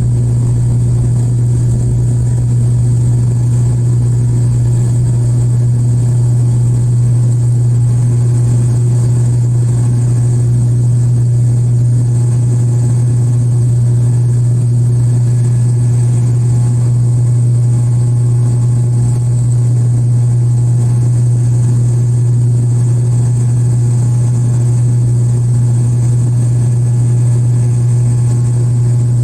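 Steady, loud propeller and engine drone of a turboprop airliner heard from inside the cabin during the climb just after takeoff, a deep even hum with a faint high whine above it.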